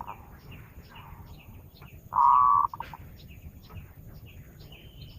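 Zebra dove (perkutut) cooing once about two seconds in: a short held note that breaks into a quick stutter of pulses, the call used to lure the bird. Small birds chirp briefly and sparsely in the background throughout.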